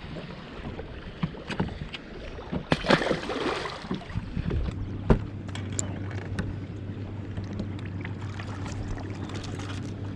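Sounds of a small fishing boat: scattered knocks and thumps, a short rush of noise about three seconds in, and a sharp knock about five seconds in, after which a steady low hum sets in.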